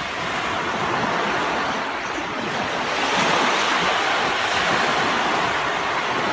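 A steady, even rushing noise with no tone or voice in it, holding at about the same level throughout.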